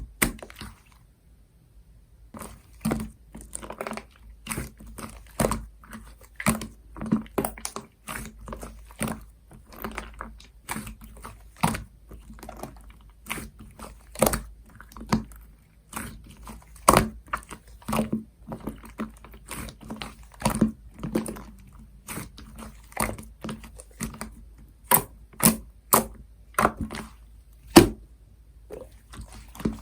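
Soda cream slime being squished and pressed by hand, making irregular sticky clicks and air-bubble pops, starting about two seconds in and coming two or three a second.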